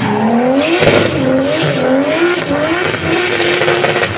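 Drift car's engine revving hard mid-drift, its pitch rising and falling again and again as the throttle is worked, over a steady hiss.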